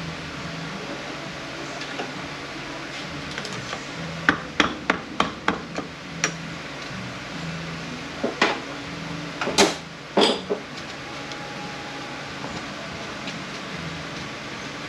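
Hammer strikes on metal as a stuck part inside a Mercedes 722.118 automatic transmission is knocked loose during teardown. A quick run of about six blows comes about four seconds in, followed by several more spaced single blows.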